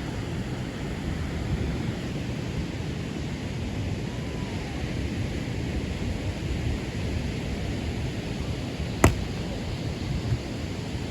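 Steady wind noise on the microphone, with one sharp crack about nine seconds in.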